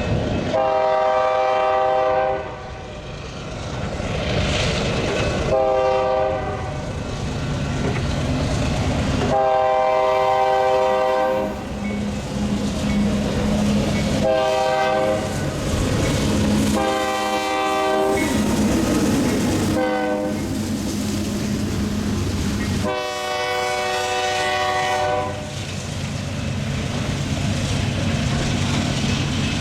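Diesel freight locomotive's multi-chime air horn sounding seven blasts, long and short in turn, over the steady rumble of the approaching freight train.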